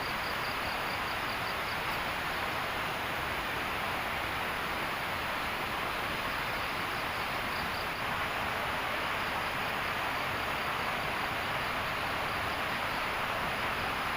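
Night insects, crickets among them, chirping in faint repeated pulses over a steady rushing outdoor noise.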